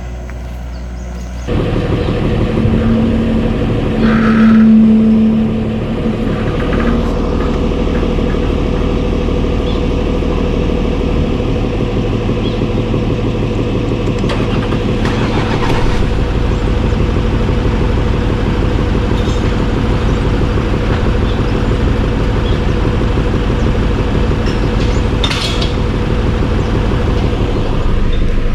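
A vehicle engine starts up about a second and a half in and then runs steadily. A loud held tone sounds for a couple of seconds just after it starts.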